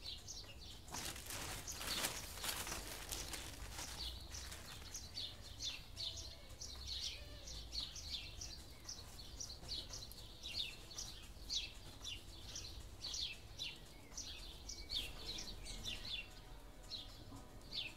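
Small songbird giving a long run of short, high chirps, several a second, from a few seconds in onward. Just before the chirping, for about three seconds, there is a scratchy rustling noise.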